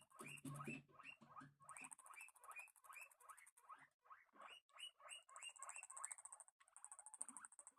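Guinea pigs squeaking, a quick run of short rising squeaks, about three or four a second, faint.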